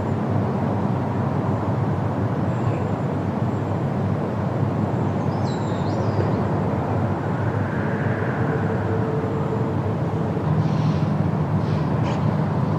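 Steady wind rushing through forest leaves, with a few faint bird chirps about five seconds in and again near the end.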